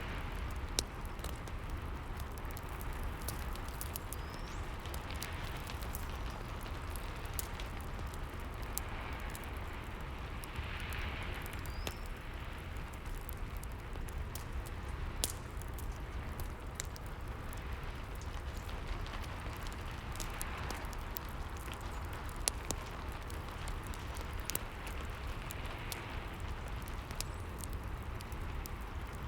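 Rain and fireplace ambience: a steady hiss of rain with a low rumble, and scattered sharp crackles and pops from burning logs.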